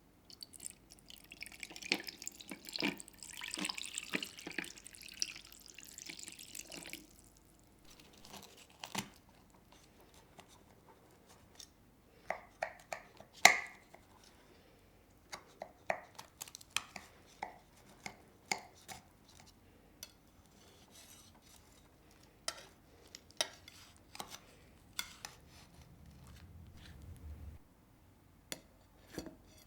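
Kitchen items being handled: scattered knocks and clicks of things set down and moved, with one sharper ringing clink about halfway through. A few seconds of hiss with small clicks near the start.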